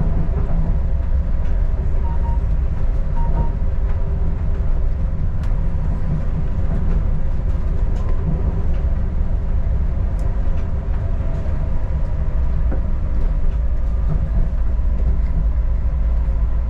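Adelaide Metro diesel railcar running along the track, heard from on board: a steady low rumble with a constant hum and scattered faint clicks from the rails.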